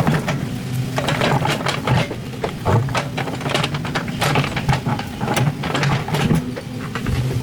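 Excavator's diesel engine running under load, with many sharp, irregular metallic clanks and knocks over the steady engine drone.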